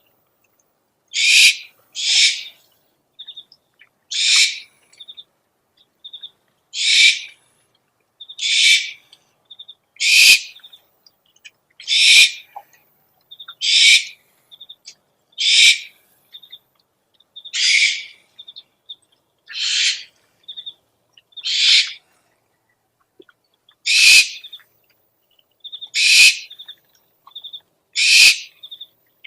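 Owl calls played as a lure: a harsh, hissing screech repeated about every two seconds, each under a second long, with faint short chirps between the screeches.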